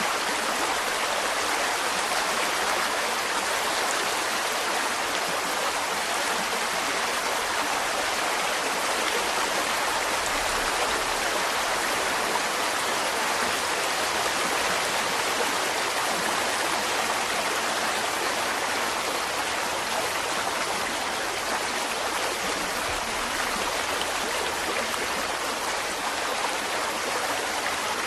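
Mountain stream flowing steadily over rocks, a continuous rushing and splashing of water.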